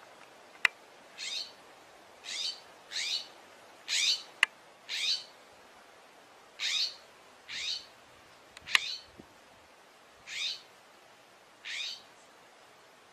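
A bird calling, a harsh call repeated about ten times at roughly one-second intervals, with three sharp clicks in between.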